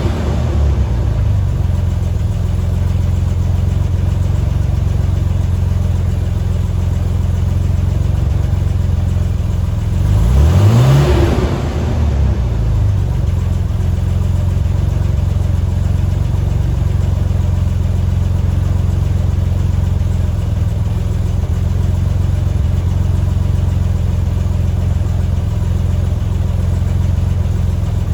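1985 Chevy S10's carbureted 2.8-litre V6 idling steadily through a Borla muffler with no tailpipe after it, given one quick rev about ten seconds in before settling back to idle.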